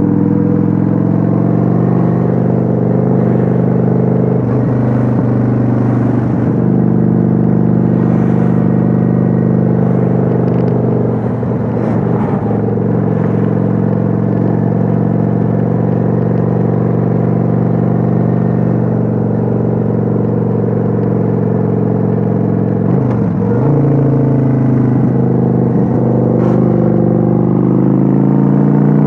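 Kawasaki Vulcan 900's V-twin engine heard on board while cruising, running steadily; the revs dip briefly twice, about a third of the way in and again about four-fifths in, then climb near the end.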